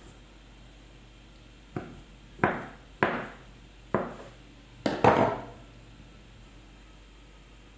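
Six sharp knocks at uneven intervals, each ringing out briefly, the last two close together and loudest: kitchen utensils or cookware being handled and set down.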